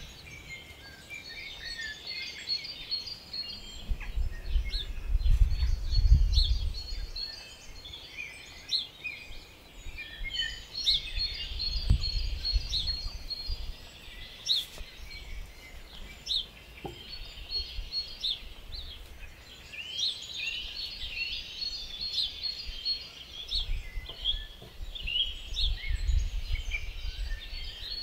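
Garden birds singing and chirping throughout, in quick runs of short, high notes. A few stretches of low rumble come in, the loudest about five seconds in.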